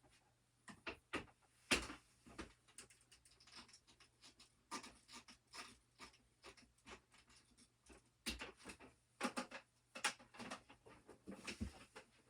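Irregular knocks, clicks and rustling of household items being handled, picked up and set down as a room is emptied, with the sharpest knock about two seconds in and a cluster more near the end.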